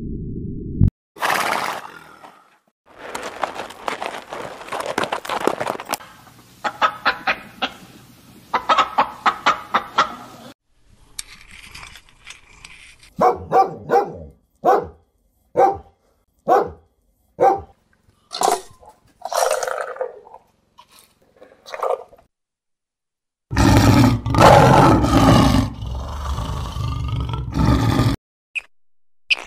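Several different animal calls, one clip after another. There is a noisy stretch with quick repeated strokes, then a row of short calls about one a second. Near the end comes a loud, deep roar lasting about five seconds.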